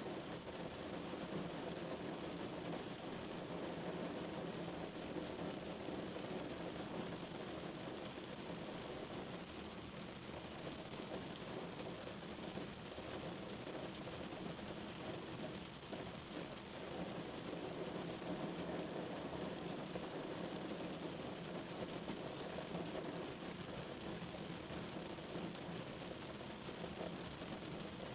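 Steady rain drumming on a car, a dense even patter with a low, heavy body that swells and eases slightly.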